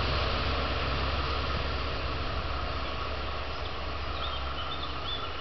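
Regional train's low engine rumble fading steadily as it draws away, with birds chirping near the end.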